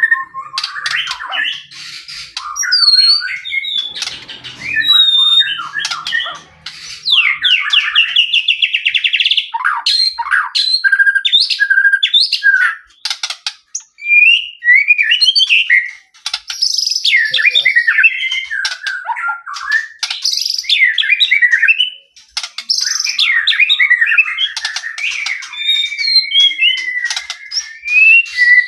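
White-rumped shama singing a loud, varied song of clear whistles, slurred glides and fast trills in quick phrases, with a few short pauses. A long, level whistle comes near the end.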